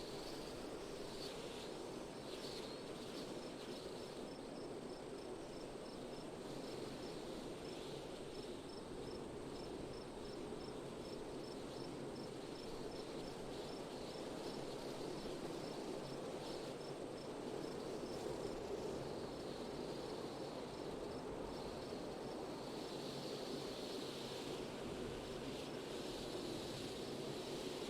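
Steady wind blowing outdoors, a low, even rush. An insect, likely a cricket, chirps faintly about three times a second through much of it, and stops roughly two-thirds of the way in.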